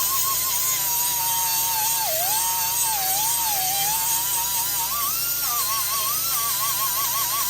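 High-speed rotary tool whining steadily, its pitch sagging and wavering as it is pressed into the work, grinding or sanding down weld on the exhaust pipe.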